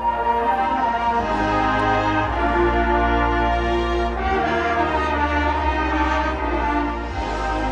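Marching band brass playing loud sustained chords over held low bass notes, with the harmony shifting every second or two.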